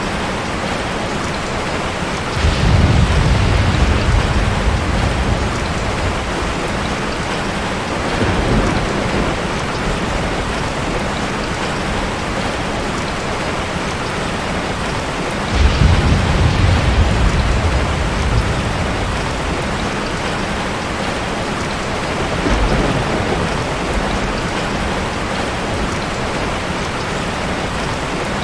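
Ocean surf: a steady wash of water with two heavier waves breaking, about two seconds in and again about fifteen seconds in. Each break is a deep rumble that fades over a few seconds, and smaller swells come between them.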